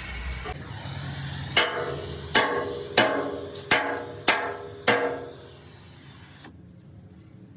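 A steady hiss cuts off, then a hammer strikes steel six times at a little under a second apart, each blow ringing briefly.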